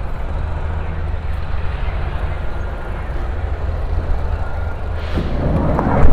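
Steady low rumble and hiss of outdoor background noise, with a scuffling rise about five seconds in and a loud thump right at the end.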